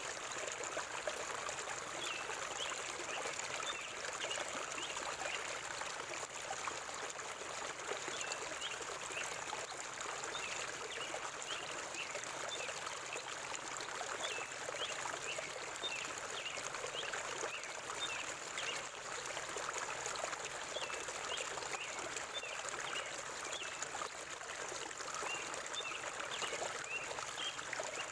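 River water flowing steadily, with small birds giving many short, high chirps throughout. A thin, steady high-pitched hiss sits above.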